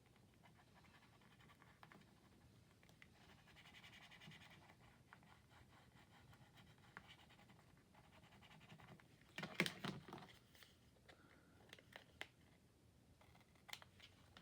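Faint rustling and scratching of paper and sticker pieces being handled on a craft table, with a short louder burst of crackling about two-thirds of the way through.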